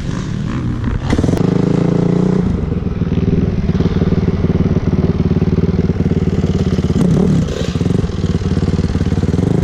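Dirt bike engine running, getting louder about a second in and then holding steady.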